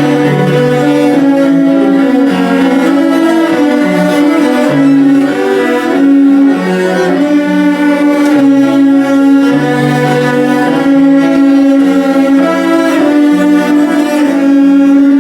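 Ensemble of cellos playing: a high held note bowed again and again over a lower part that moves from note to note.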